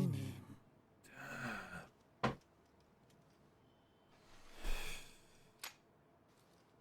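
A person sighs, then a cigarette lighter is struck over and over without catching: brief breathy scrapes, each followed by a sharp click, twice.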